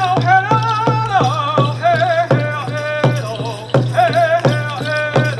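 Native American hoop dance song: a man singing a wavering chant over a steady drumbeat of about three beats a second.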